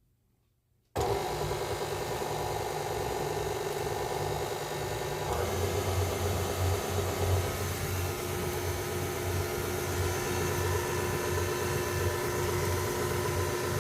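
Electric mixer switched on about a second in and running steadily, mixing a batter. Its tone shifts about five seconds in, with a stronger low hum from then on.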